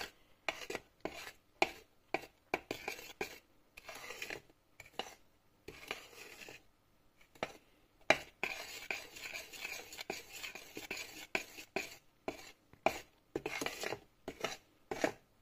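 A metal kitchen utensil knocking and scraping against cookware while stirring, in irregular clicks with a longer scraping stretch about halfway through.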